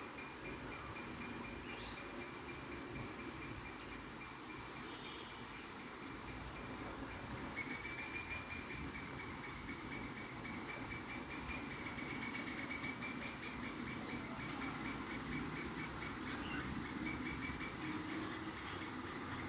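A bird repeating a short high call about every two seconds, several of them running on into a trill. Steady high insect-like droning and a low rumble sit underneath.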